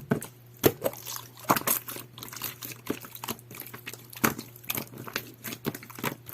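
Jelly-textured pearl slime being squeezed and pressed by hand, giving irregular wet clicks and pops.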